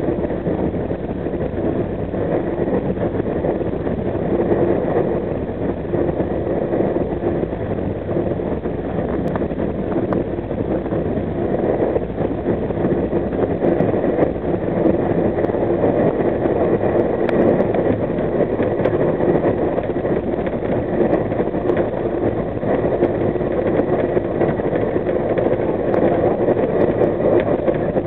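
Steady rumble and rail noise of a passenger train running at speed, heard from on board, with a faint steady hum over it as it passes a freight train on the next track.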